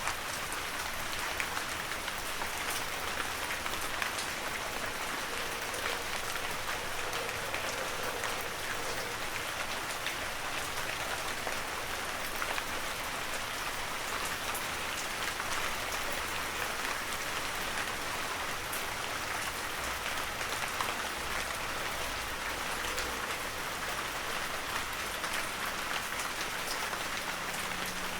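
Heavy rain falling steadily: a dense, even hiss of countless drops, with fine individual drop ticks through it.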